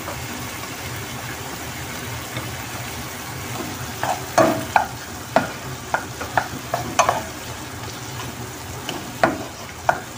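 Chicken, onion, tomato and green chili sizzling steadily in a pan while a wooden spoon stirs them. From about four seconds in, the spoon knocks and scrapes against the pan in a run of sharp clicks.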